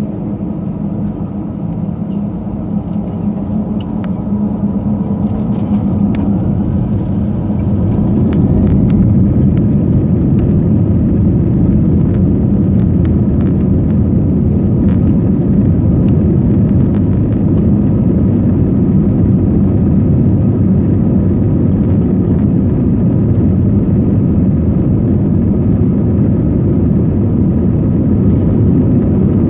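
Aircraft engines running with a steady low rumble that grows louder over several seconds, with a faint rising whine, then holds steady, as thrust comes up for the takeoff roll.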